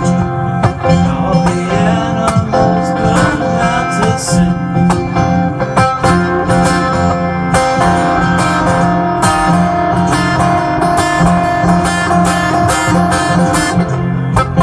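Instrumental music: acoustic guitar playing over acoustic bass and drums with a steady beat.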